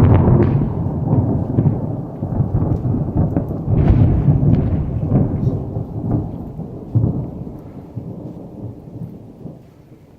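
Thunder from a close lightning strike: a sudden loud crack that rolls on as a long rumble with crackling peaks, fading away over about ten seconds.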